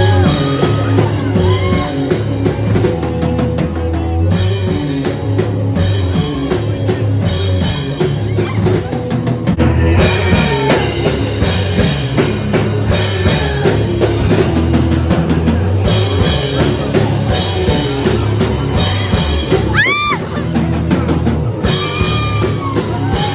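Loud rock music driven by a drum kit, with bending, sliding notes above the beat.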